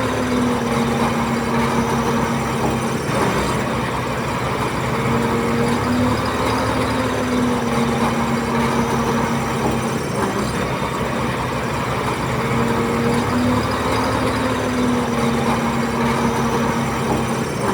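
Bulldozer's diesel engine running steadily under load, its pitch dipping and recovering every few seconds as the load changes.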